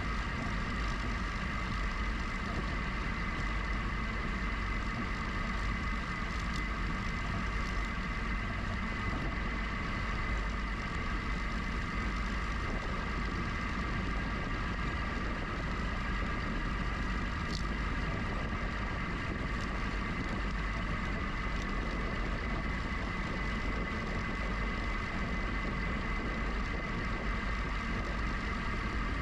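GoCycle GX electric bike in motion: a steady low rumble of road and wind noise with a constant high whine, unchanging throughout.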